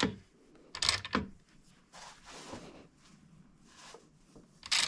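Hand tools being handled while working on a motorcycle engine mount: a knock at the start, two more knocks about a second in, a brief rub around two seconds, and a sharp clack near the end.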